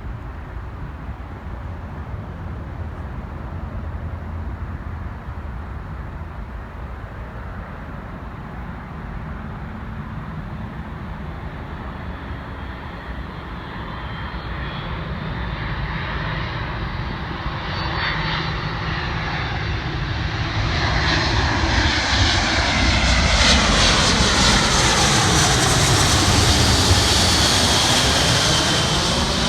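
Boeing C-17A Globemaster III's four turbofan jet engines on approach, their sound growing steadily louder with a high whine as the aircraft comes closest about two-thirds of the way in, then easing slightly near the end.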